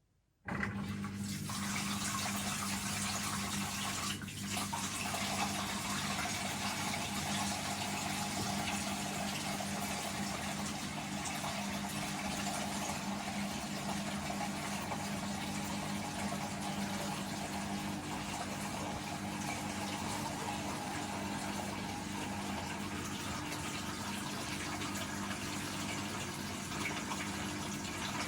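Siemens WM14T490 washing machine suddenly starts moving water, a steady rushing with a low electrical hum under it. There is a single knock about four seconds in.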